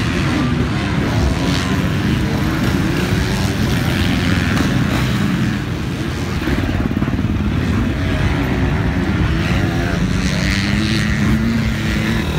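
Motocross dirt bike engine running hard on track, its pitch rising and falling as the throttle is worked through corners and straights, with a long climb in revs near the end.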